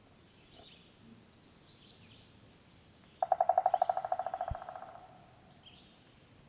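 Forest ambience with faint high bird chirps repeating throughout. About three seconds in, a loud rapid trill of pitched notes, roughly a dozen a second, fades away over about two seconds, and a brief low thump comes partway through it.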